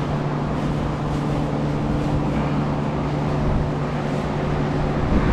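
Steady low mechanical hum over a constant background rush; the hum drops away shortly before the end.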